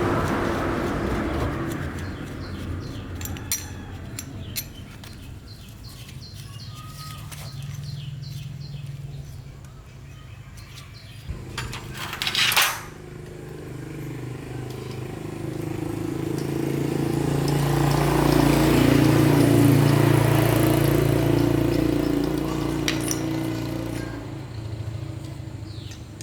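A motor engine running with a steady hum that swells to its loudest about two-thirds of the way through and then fades. A few sharp clicks come early on, and a loud short clatter comes about halfway.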